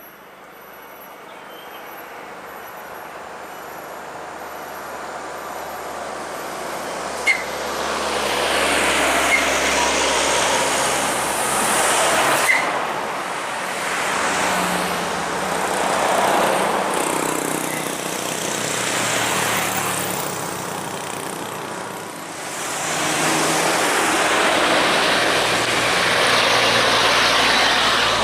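Heavy trucks passing one after another, engine and tyre noise building up and then swelling and fading as each goes by, with a couple of brief sharp clicks.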